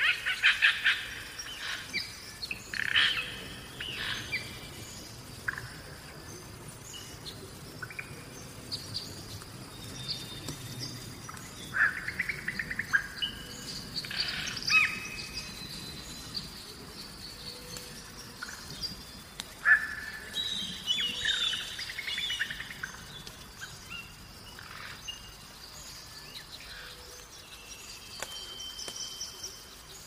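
Wild birds chirping and singing outdoors, with short calls and quick trills coming in overlapping bursts over a faint steady background hiss. The calls thin out near the end.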